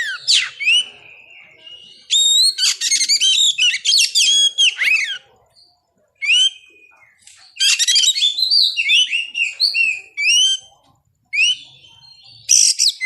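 Oriental magpie-robin (kacer) singing: loud phrases of rapid, varied whistles and chirps, broken by short pauses about halfway through and near the end.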